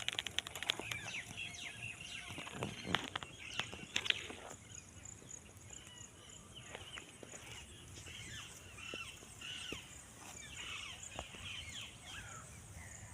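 Birds chirping in many short, falling calls, over a steady high-pitched pulsing trill. A few sharp clicks come in the first four seconds.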